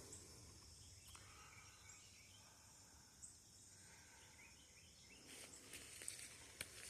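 Near silence: faint outdoor ambience with a thin, steady high insect hiss, and a few faint ticks in the last couple of seconds.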